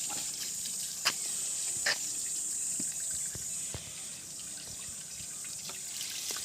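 Water running and spattering during a car wash: a steady hiss, with two sharper splashes about one and two seconds in.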